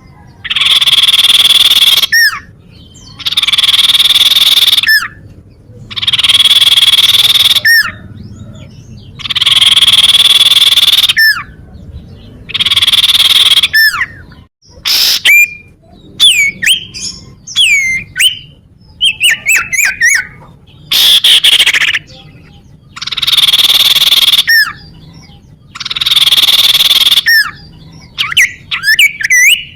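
Common iora (cipow) calling loudly: a harsh buzzing note about a second and a half long, repeated every two to three seconds, with short sharp falling whistles between. Twice there is a quick run of falling whistle notes instead of the buzz.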